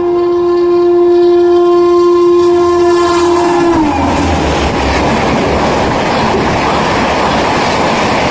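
Indian Railways locomotive horn held in one long steady blast that bends down in pitch as the locomotive passes, about four seconds in, and then stops. The loud rushing rumble of the passenger train's coaches going by at high speed follows.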